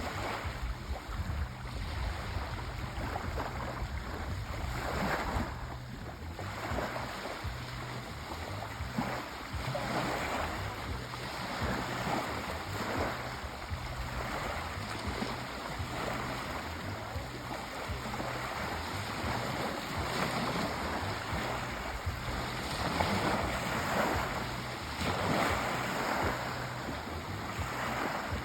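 Sea waves washing in, rising and falling in slow surges a few seconds apart.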